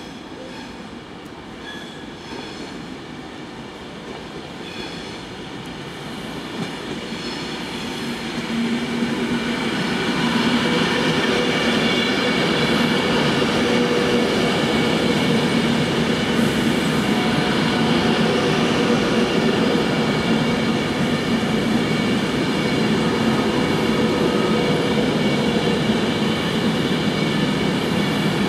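Virgin Trains Class 390 Pendolino electric train approaching and passing slowly. Wheel-on-rail rumble grows louder over the first ten seconds, then holds steady, with steady whining tones over it.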